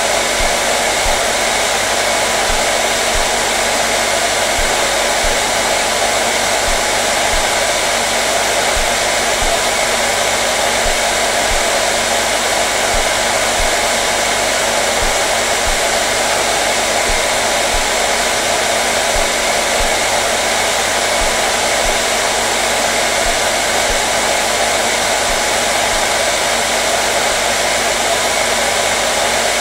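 Hair dryer running steadily: a constant, unchanging rush of air with a faint motor hum under it.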